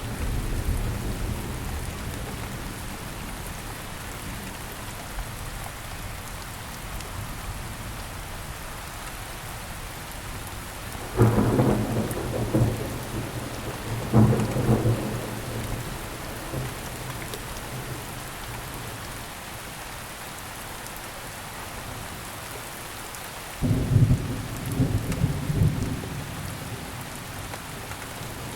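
Steady rain falling, with thunder rumbling in three rolls: about eleven seconds in, again a few seconds later, and a longer one near the end.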